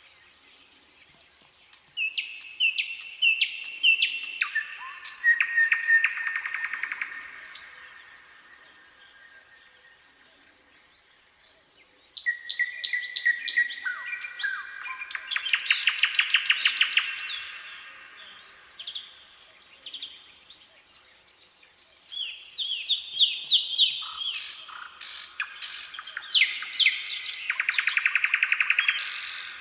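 Nightingale singing: three song phrases a few seconds apart, each with fast runs of repeated notes and trills.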